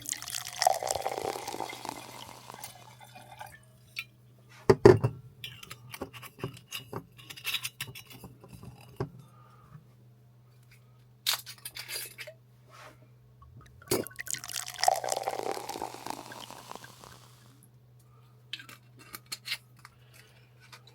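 Glasses clinking and knocking, with liquid poured twice, each pour swelling and fading over a few seconds, above a steady low hum.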